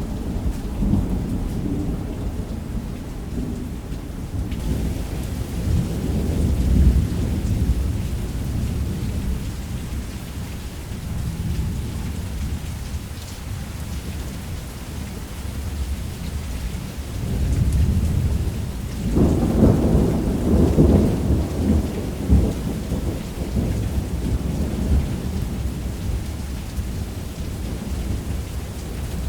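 Thunderstorm: steady heavy rain on a roof with low rolling thunder, rumbling briefly about six seconds in and again more strongly from about two-thirds of the way through.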